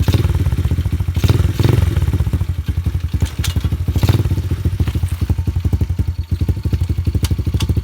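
110cc semi-automatic pit/dirt bike's single-cylinder four-stroke engine running just after being kick-started, a fast, even, low-pitched putter that swells briefly a few times.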